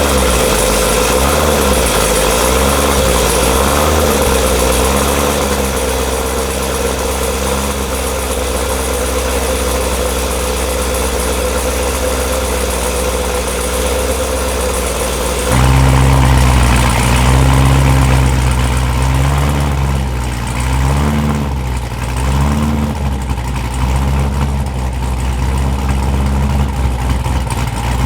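C7 Corvette's freshly built LT1 6.2 L V8 with a stage 1 Brian Tooley cam, idling just after a cold start. The idle is lopey, its pitch rising and falling in a steady rhythm. About halfway through, the deep exhaust note becomes louder.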